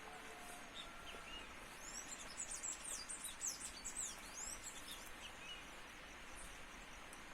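Small birds twittering: a flurry of quick, high chirps about two seconds in that lasts roughly three seconds, over steady outdoor background noise.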